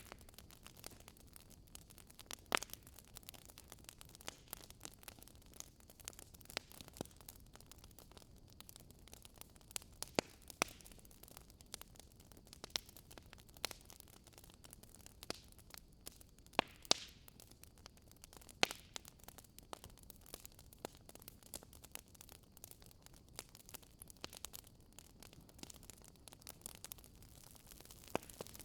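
Wood fire burning in a fireplace, crackling: irregular sharp pops and snaps from the burning logs over a soft, steady hiss, with a few louder pops at scattered moments.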